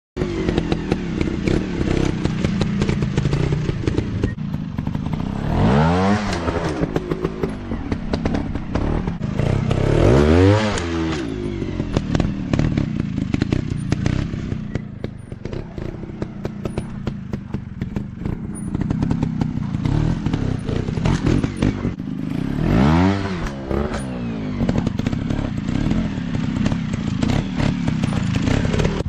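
Dirt bike engines running off-road, revving up and back down sharply three times, with a busy clatter throughout.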